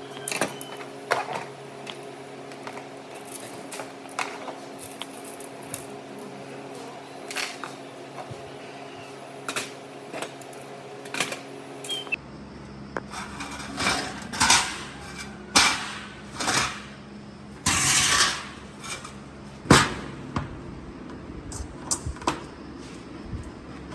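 Workshop handling sounds: many sharp clicks and knocks over a steady low hum. The hum changes about halfway through, and a longer scraping burst comes about 18 seconds in.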